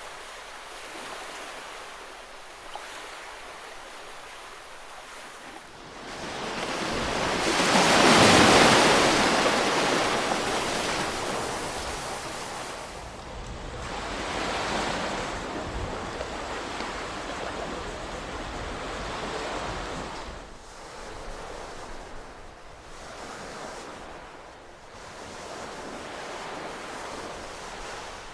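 Ocean waves breaking and washing up a shore in slow swells. The loudest wave breaks about eight seconds in, followed by a smaller one around fifteen seconds and weaker ones after.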